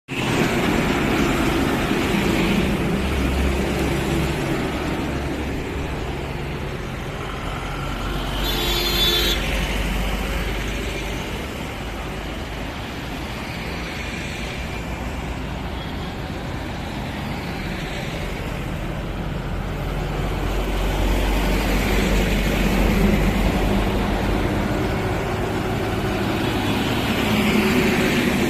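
Highway traffic of trucks and tankers: continuous engine rumble and tyre noise, swelling as heavy vehicles pass about nine seconds in and again after about twenty seconds. A short high-pitched sound comes about nine seconds in.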